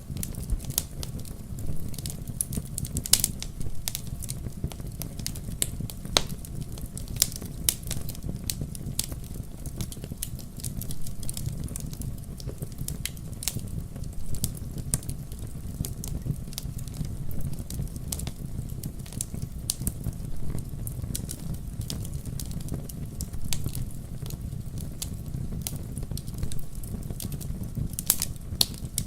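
Wood fire in a fireplace crackling and popping: irregular sharp snaps over a steady low rumble of the flames.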